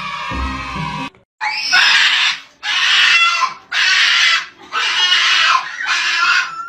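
Background music that stops abruptly about a second in, then an animal giving five harsh, noisy cries about a second apart.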